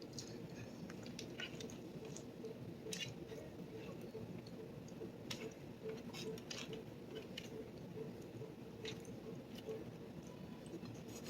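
Faint, irregular small clicks and soft squishy food sounds, about one every second or so, over a low steady background hum.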